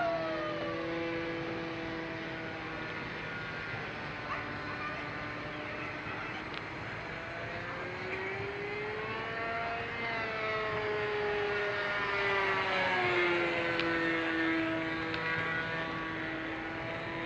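Gasoline engine and propeller of a radio-controlled model airplane droning in flight, its pitch rising and then falling back around the middle as the plane passes or the throttle changes.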